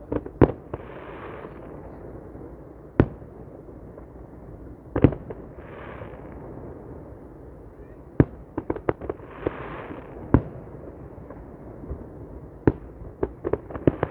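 Fireworks display: aerial shells bursting with sharp bangs at irregular intervals, including a rapid cluster of bangs about eight to nine seconds in and another near the end, over a steady background rush.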